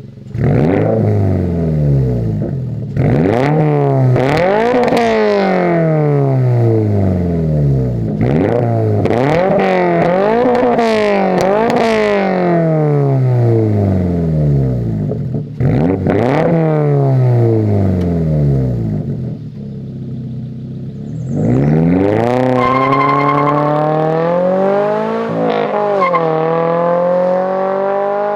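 2022 GR86/BRZ's FA24 flat-four through an AWE Track Edition catback exhaust, revved over and over. Each rev climbs quickly and falls back more slowly. Near the end comes one long, steady climb in pitch.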